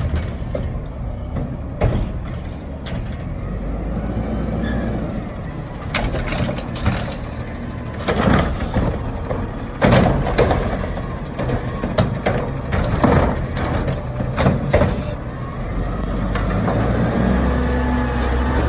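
Recycling garbage truck's diesel engine running, with repeated clanks and bangs as the truck's arm and bins work and recycling drops into the hopper, and short air-brake hisses. Near the end the engine revs up.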